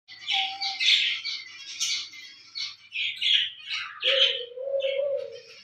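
Small birds chirping: a dense run of quick, overlapping high-pitched calls, likely from several birds at once. A lower steady tone joins about four seconds in and holds to the end.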